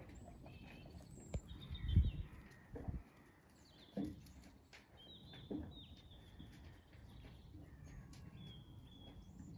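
Small birds singing and calling in short whistled phrases, with a few low thumps, the loudest about two seconds in.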